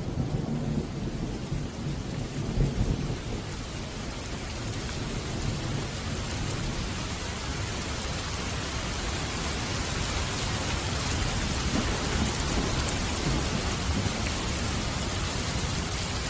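Steady heavy rain falling, with a low rumble of thunder in the first few seconds; the rain's hiss grows fuller after that.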